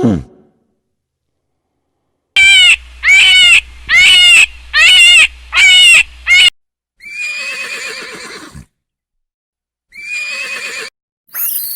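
Farm animal calls: a quick run of six short, loud cries, each rising and falling in pitch. After a pause come three longer, rougher, wavering calls.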